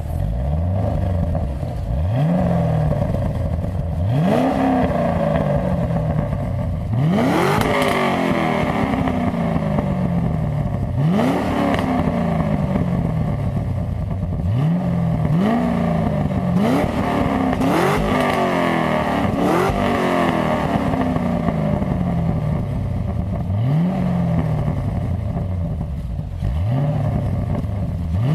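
Vauxhall VXR8's V8 engine, tuned to about 500 bhp, revved over and over through its exhaust. Each blip of the throttle climbs sharply and then dies away slowly back toward idle, about a dozen times.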